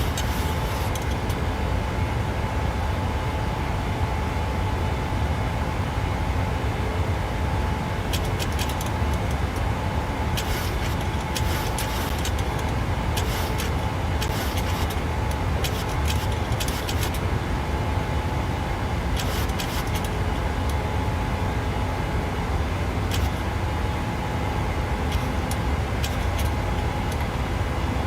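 Boeing 737-800's CFM56-7B jet engines and the rushing airflow, heard from the flight deck during the climb after take-off: a steady deep roar with a thin steady tone above it. Short faint clicks or crackles come and go.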